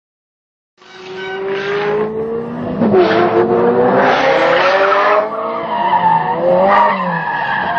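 A car engine revving hard while its tyres squeal and skid, starting suddenly about a second in. The engine's pitch climbs and wavers as it slides.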